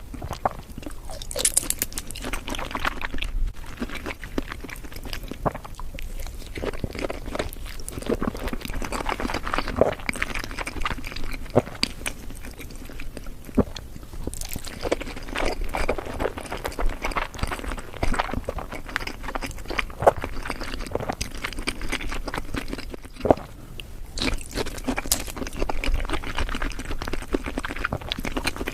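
Close-miked chewing of raw-fish sushi and sashimi: wet smacking and sticky mouth clicks in an irregular run, with a few sharper bites.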